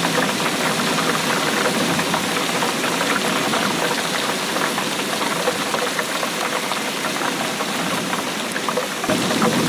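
Steady rain falling, a dense patter of drops. It grows a little fuller and louder about nine seconds in.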